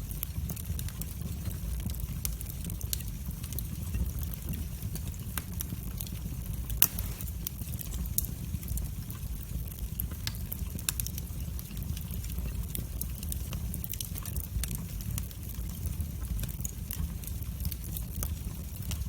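Wood fire burning in a fireplace: a steady low rumble of flames with scattered sharp crackles and pops, one louder pop about seven seconds in.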